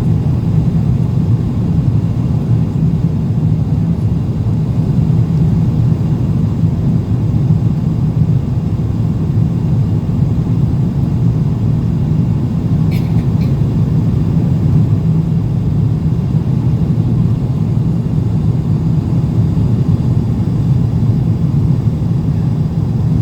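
Steady low cabin roar of an Airbus A350-900 under way after takeoff: its Rolls-Royce Trent XWB engines and airflow heard from inside the passenger cabin. Two faint short ticks about halfway through.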